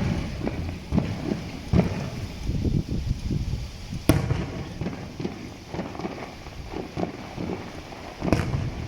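Fireworks display bursting: a rapid run of deep booms of varying loudness, with a sharp crack about four seconds in and another near the end.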